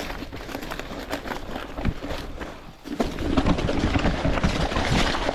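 Skis or a board scraping and chattering over rough, chopped-up, blown-out snow on a descent, with many small knocks. It gets louder about three seconds in.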